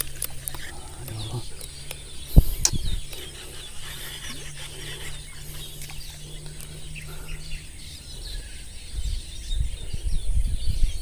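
Birds chirping over a low steady hum, with a sharp click about two and a half seconds in and a low rumble building near the end.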